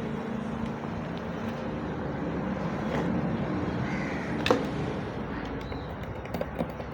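Steady background noise with a low hum, broken by a single sharp click about four and a half seconds in.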